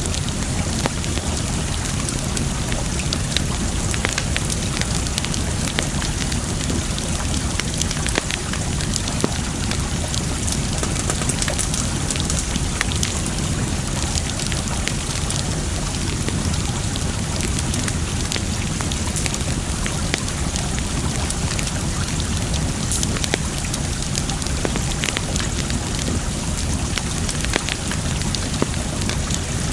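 Wood fire crackling, with many small sharp pops scattered throughout, over a steady rush of water.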